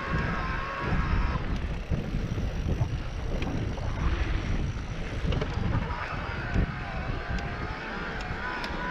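Mountain bike ride: wind buffeting the microphone and the rumble of the tyres on the trail, with a steady high whine in the first second or so that comes back about six seconds in.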